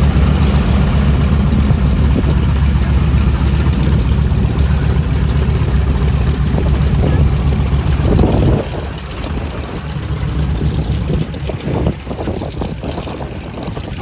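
Piston aircraft engine and propeller running nearby, a deep, rapidly pulsing rumble that drops away suddenly about two-thirds of the way through, leaving a quieter, uneven sound.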